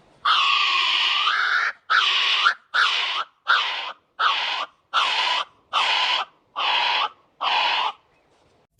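An animal calling nine times in a row: one long, raspy call, then eight shorter ones at a steady pace of a little more than one a second.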